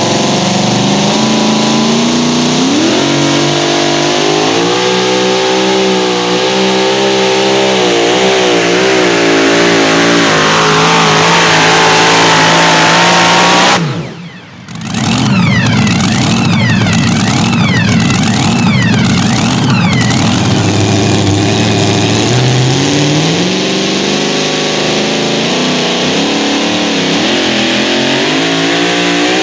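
Pulling truck's engine running hard at full throttle, its pitch climbing in steps. The sound drops out abruptly about 14 seconds in, then the engine comes back with whines that rise and fall before settling into steady running.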